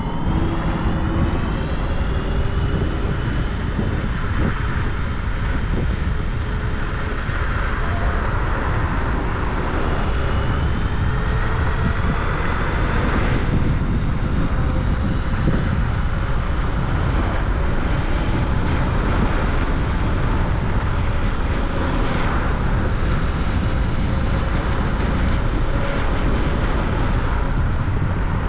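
Wind rushing over the microphone of a moving rider, a steady low rumble, with a motor whine that glides up and down in pitch as the ride speeds up and slows.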